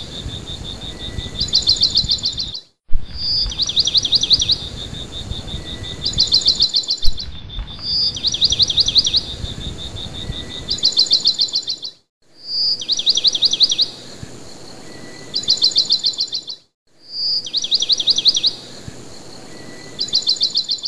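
A songbird singing the same phrase over and over, about every five seconds: a short high whistled note, then a fast trill, then a second trill. A steady high pulsing chirp of insects runs underneath. The sound cuts out briefly three times.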